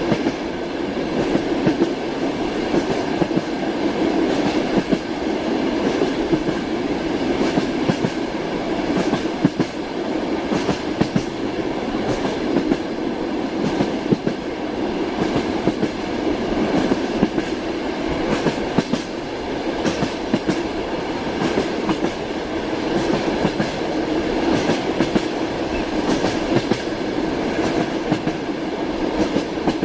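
Passenger train running at speed, heard from inside the carriage: a steady rumble of wheels on the rails, broken by frequent short clicks and knocks.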